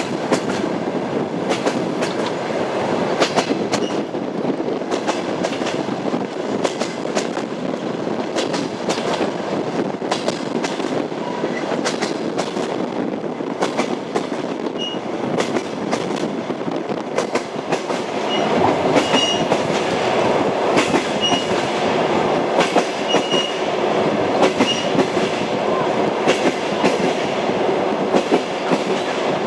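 Train running along the track: a steady rumble with the clickety-clack of the wheels over rail joints. It grows a little louder about two-thirds of the way through, and short high squeaks come and go in the second half.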